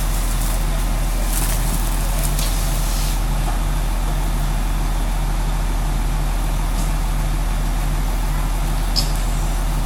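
A fire engine's engine running steadily with a low, pulsing hum. There are a few faint clicks in the first few seconds and one sharp tick near the end.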